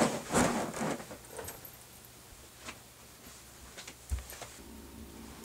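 Movement and handling noises: a burst of rustling at the start, then scattered small clicks and taps, and a soft low thump about four seconds in.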